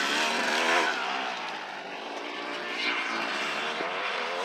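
Motocross dirt bike engine revving on the track, its pitch rising and falling as the rider works the throttle.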